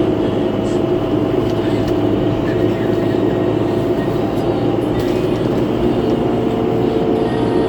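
Cabin noise of a 2011 New Flyer C40LF CNG transit bus under way: a steady rumble of engine and road noise with steady whining tones over it, the bus's odd-sounding fan. A second whining tone joins about six seconds in.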